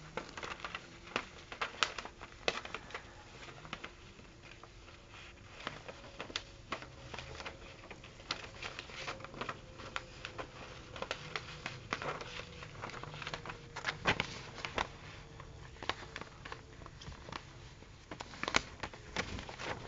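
A sheet of paper being handled and folded by hand: irregular rustling with sharp crinkles and crease snaps scattered throughout.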